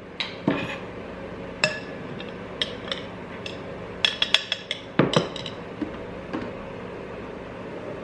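Kitchenware clinking and knocking during breakfast preparation: a scattered series of sharp clicks and clinks, with a quick run of them about four seconds in, over a faint steady hum.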